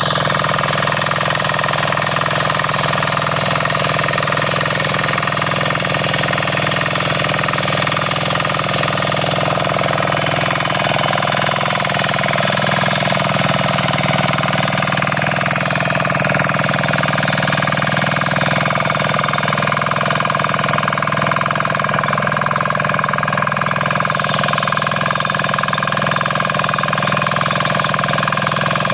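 7 hp diesel power weeder's single-cylinder engine running steadily at a constant speed.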